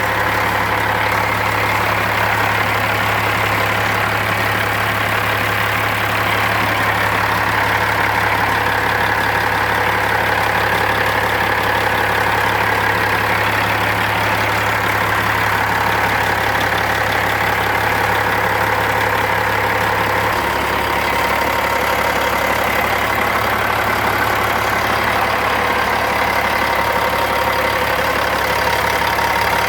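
Engine running steadily at a constant speed, with a slight drop in its low tone about two-thirds of the way through.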